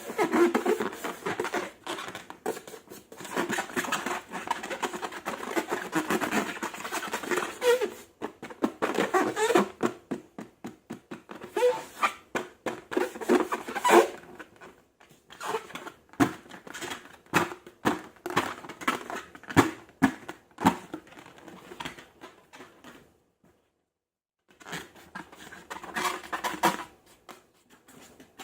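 Slime being squeezed and kneaded by hand: a dense run of wet clicks and small pops, thinning to scattered single clicks about halfway through, a brief pause near the end, then more squishing.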